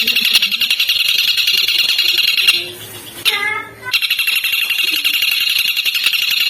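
Recorded songbird song: a dense, very fast trilling chatter of high notes. About two and a half seconds in it breaks off for a short different call of a few stepped notes, then the rapid chatter resumes.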